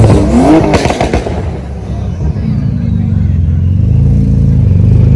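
A car engine running loudly at a steady idle, with a brief rising-and-falling sound in the first second and the idle swelling a little near the end.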